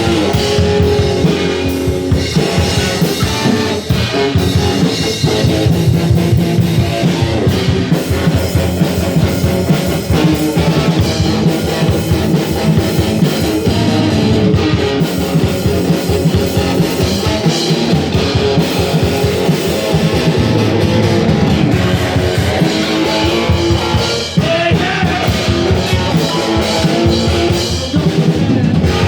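Rock band playing a song: strummed guitar over a steady drum-kit beat, with no break.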